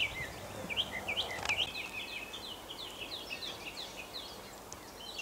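Songbirds singing, a quick run of short high chirps that thins out after about three seconds. A single sharp click about a second and a half in.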